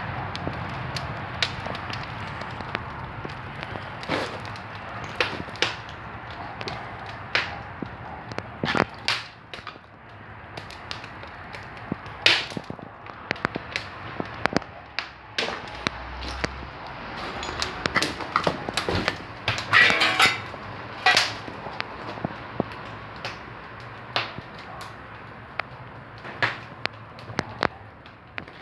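Wood fire burning in a fireplace, crackling with irregular sharp pops and snaps over a steady hiss.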